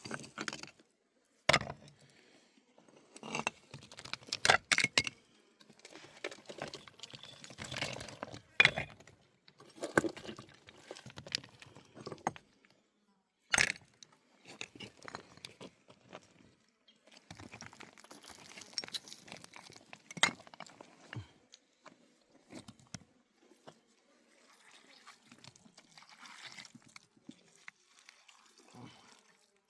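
Irregular sharp clicks, knocks and clinks, mixed with rustling and scraping handling noises, thickest in the first half and thinning out later.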